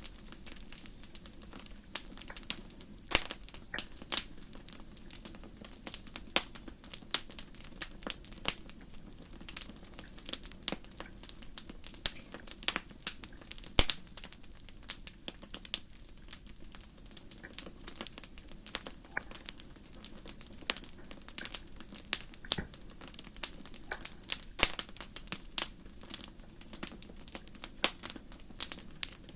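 Fire crackling: irregular sharp pops and snaps, several a second and uneven in strength, over a steady low rumble of the flames.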